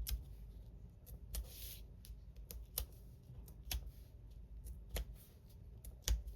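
Metal tweezers clicking and tapping on card stock while the paper backings are picked off foam adhesive dimensionals: irregular light clicks, with a brief paper rustle about a second and a half in.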